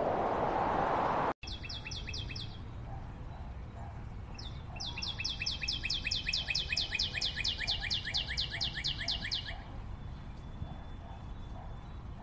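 A songbird singing rapid trills of repeated high, down-slurred notes at about six a second: a short burst, then a longer run of about five seconds. Before the song, a loud hiss cuts off abruptly about a second and a half in.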